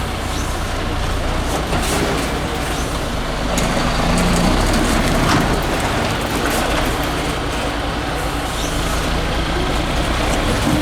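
Diesel engine of a 6x6 MAN trial truck running steadily, growing a little louder around the middle.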